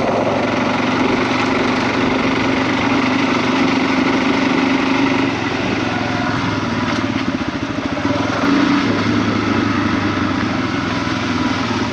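Small off-road vehicle engine running while riding over loose gravel; it eases off around the middle, then picks up again about nine seconds in.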